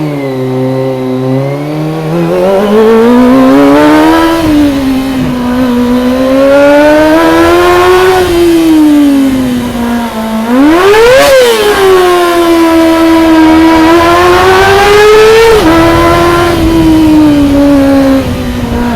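Kawasaki ZX-25R's 250 cc inline-four engine pulling hard through the gears, its pitch climbing and dropping at each shift. About halfway through it shoots up briefly to its highest pitch and falls back, then holds a steady high-rev note before easing off near the end.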